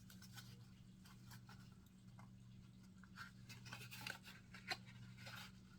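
Faint scratching, tapping and small clicks of fingers handling an eyeshadow palette's packaging box while trying to open it, over a low steady hum.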